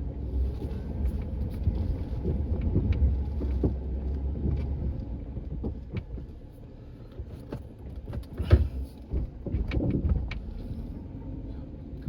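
A vehicle engine running low and steady, with scattered knocks and clanks. The rumble eases off about halfway through, and there is a sharp knock at about 8.5 seconds.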